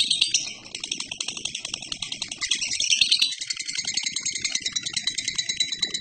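A lovebird singing a long, unbroken ngekek: a continuous, rapid, high-pitched chattering trill of fast repeated notes, its pattern shifting a little past halfway through. This sustained ngekek is the song prized in Indonesian songbird keeping.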